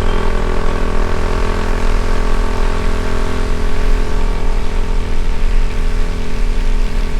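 Motorcycle engine running at a steady cruising pitch, with heavy low wind rumble on the microphone.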